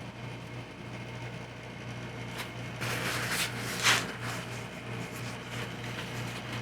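Steady low electrical hum, with a few brief rustling and handling noises about two and a half to four seconds in.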